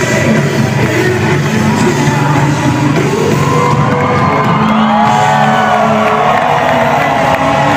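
Live band music held under a crowd cheering and whooping, with voices gliding up and down from about three seconds in.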